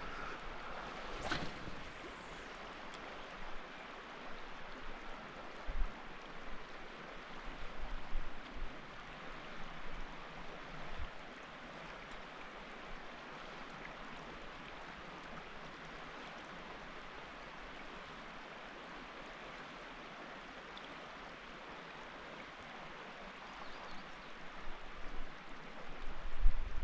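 River water rushing steadily past a kayak. A brief sharp sound comes about a second in, a few low knocks follow, and low handling noises pick up near the end.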